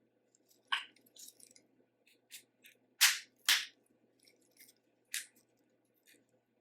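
Close-miked eating of boiled seafood: a string of sharp cracks, snaps and mouth smacks, the two loudest about three seconds in, half a second apart.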